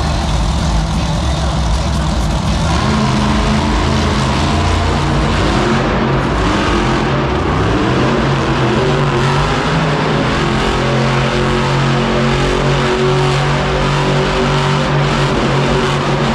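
Mega X monster truck's engine running loudly at high revs, its pitch shifting as it is throttled during a run.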